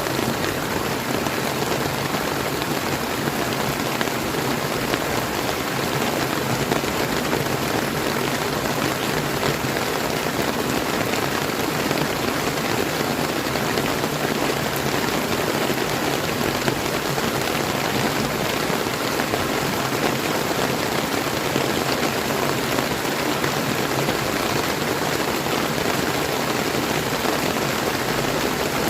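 Steady rain falling, mixed with the flow of river water, an even hiss with no change.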